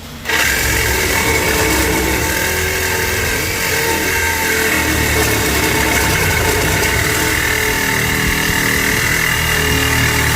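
Angle grinder with a cut-off disc starting up abruptly and running steadily under load, with a steady high whine, cutting through metal.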